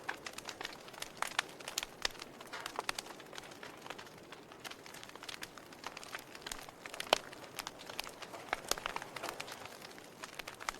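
Wood fire in a fireplace crackling: irregular sharp pops and snaps over a soft hiss, with one louder pop about seven seconds in.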